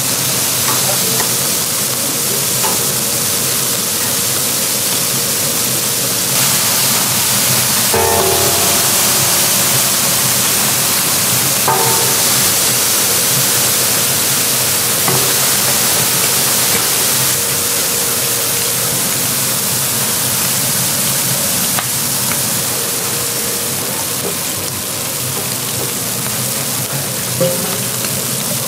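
Food sizzling steadily in hot fat on a cooking surface, a loud continuous hiss.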